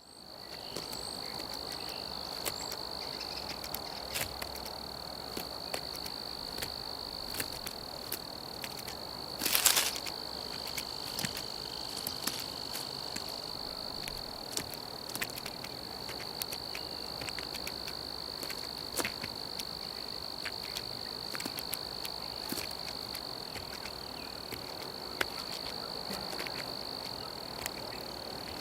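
Crickets trilling in a steady, continuous high chorus, with scattered faint clicks and one short, loud noise about ten seconds in.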